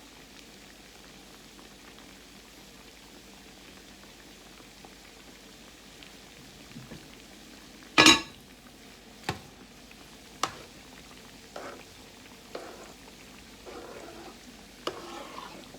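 Croquettes frying in a pan of grease: a steady, faint sizzle. About halfway through comes one loud sharp crack, then several smaller pops and short bursts of sizzling.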